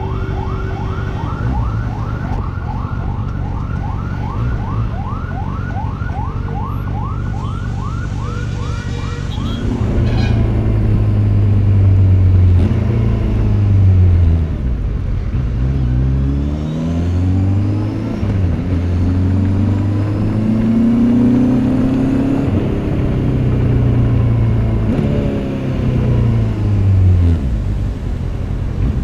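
A rapid, yelping siren over the low, steady running of a Kawasaki Z800's inline-four engine for about the first ten seconds. Then the motorcycle's engine gets louder, its pitch rising and falling again and again as the revs climb and drop.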